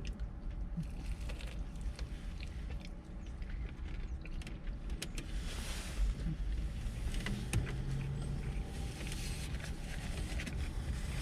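Eating sounds inside a car: chewing and many small sharp clicks and rustles, over a steady low rumble from the car; a low steady hum joins about halfway through.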